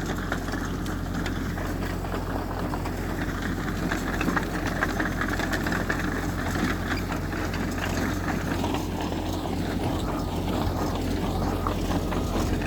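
Heavy diesel earthmoving machinery running steadily, with frequent small clanks and rattles over the engine drone.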